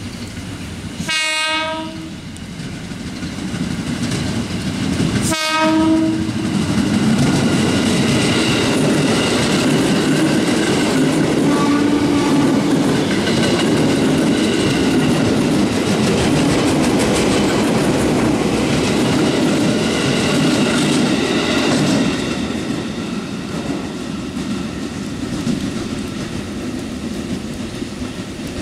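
KRL electric commuter train sounding two short horn blasts, about one and five seconds in, then passing close by with loud wheel and carriage noise that drops away about twenty-two seconds in. A steady hiss of heavy rain runs underneath.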